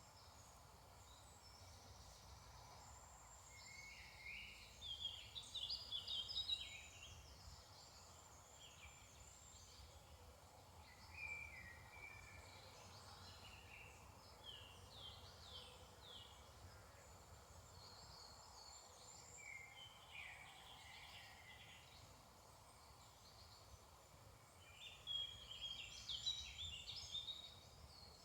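Woodland songbirds singing in a morning chorus: quick, chirping phrases of song, loudest about five seconds in and again near the end, with fainter songs between. A faint low rumble runs underneath.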